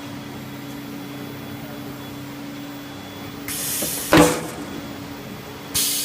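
Water heater tank production machinery humming steadily. A hiss starts about three and a half seconds in. A loud metallic clank comes just after it, and another hiss starts near the end.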